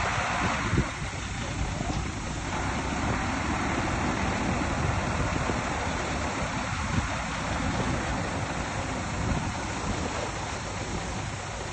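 Heavy earthmoving machinery running steadily outdoors, with wind noise on the microphone; a little louder in the first second or two.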